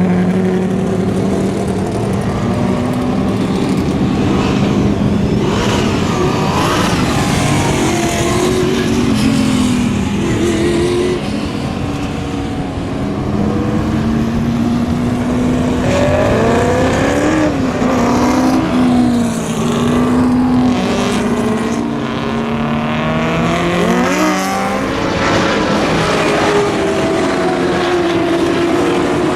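A pack of vintage muscle race cars running past on the circuit, several engines heard at once, their notes climbing and dropping as they change gear and go by. The sharpest pass-bys come about halfway through and again a few seconds later.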